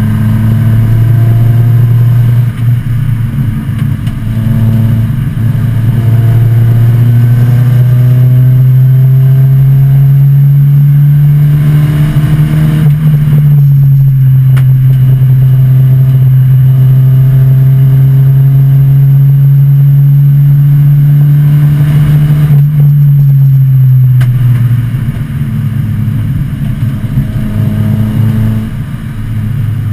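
1986 Volvo 245 wagon's engine running hard under racing load, heard from inside the cabin. Its pitch climbs slowly through the first half, holds high, then drops about three-quarters of the way in and stays lower.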